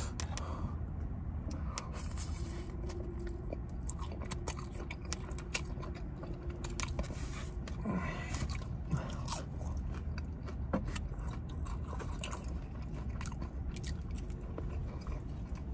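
Close-miked chewing and mouth noises of a person eating noodles and barbecued pork, with many short clicks and smacks over a steady low hum.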